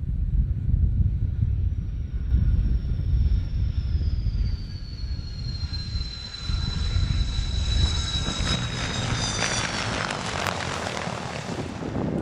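Jet aircraft engine noise: a heavy low rumble, then a high turbine whine that slowly falls in pitch, with the roar of the jet building near the end.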